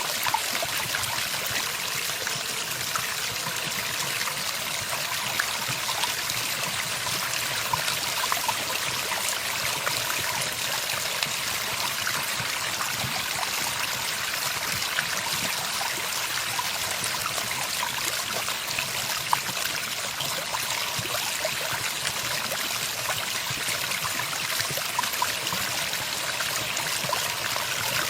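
Running water trickling and splashing steadily, like a small stream, with no birdsong.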